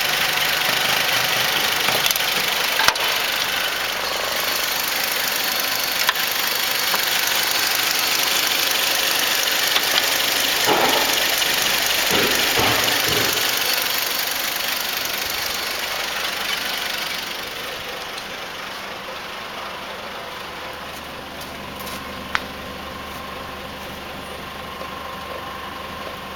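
Toyota Land Cruiser 80's 1FZ-FE straight-six petrol engine running at idle, with a few short louder sounds near the middle and some sharp clicks. It becomes quieter about two-thirds of the way through.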